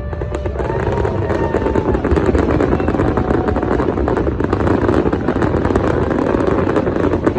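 Fireworks going off: a dense, continuous run of rapid pops and crackles.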